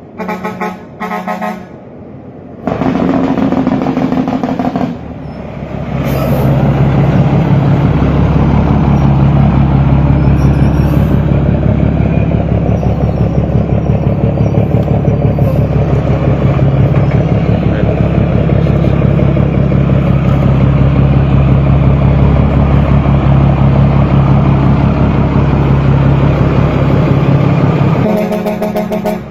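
Bus horns in short, pitched blasts, then the Blue Bird bus's Cummins diesel engine running loud and steady for about twenty seconds with a fast pulsing exhaust note; the horns sound again near the end.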